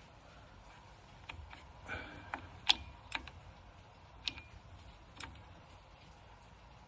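About seven sharp, irregular clicks from the gas water heater's control knob being turned to the pilot setting. One click near the middle is louder than the rest.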